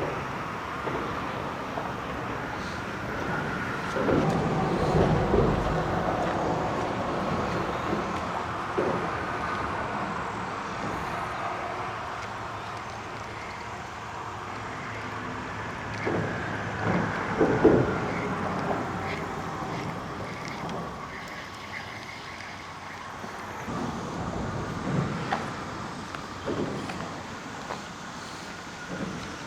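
Road traffic hum, steady with a few louder swells.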